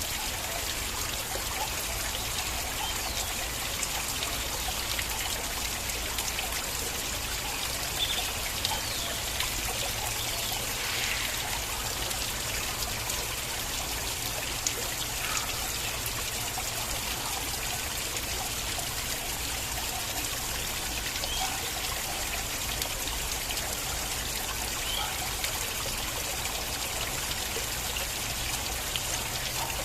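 Small stream of water flowing and trickling steadily, with little splashes and drips scattered through it.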